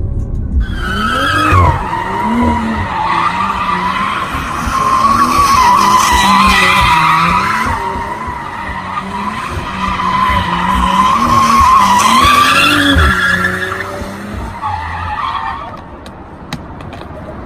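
Tyres screeching through a long drift in a BMW M340i G20, a high wavering squeal that starts just under a second in and dies away about two seconds before the end. Under it, the car's 3.0-litre turbocharged inline-six rises and falls as the throttle is worked to hold the slide.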